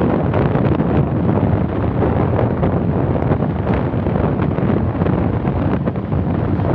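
Steady wind buffeting the microphone of a vehicle moving at road speed, mixed with the rumble of engine and tyres on the road.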